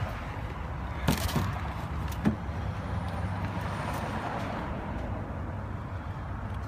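Steady motor-vehicle rumble with a low hum, broken by a few sharp clicks or knocks a little over a second in and again at about two seconds.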